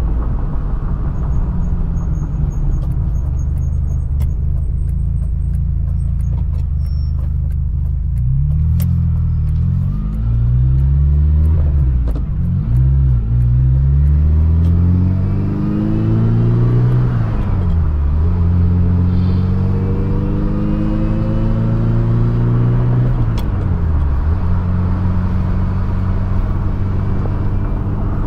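Ferrari 328 GTB's mid-mounted 3.2-litre V8 on the road. It runs at a steady cruise, then pulls through the gears, the revs climbing and dropping back at each of several shifts, before settling to a steady cruise again.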